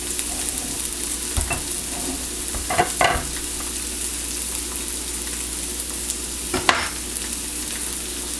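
Breaded chicken milanesa sizzling steadily as it fries in a pan, with a few short knocks about a second and a half, three seconds and near seven seconds in.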